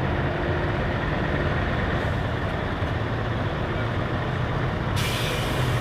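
Heavy truck's diesel engine running steadily, with a sudden loud hiss of released air, as from the air brakes, starting near the end.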